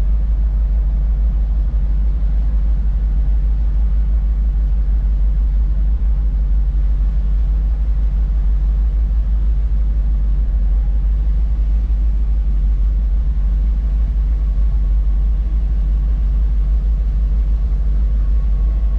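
Steady low rumble of a heavy farm vehicle's engine running, unbroken and even in level.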